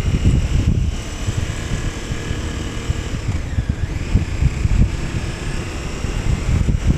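KTM 1290 Super Adventure S V-twin engine running under way, with uneven wind rumble on the microphone; a tone in the sound dips in pitch and rises again about halfway through.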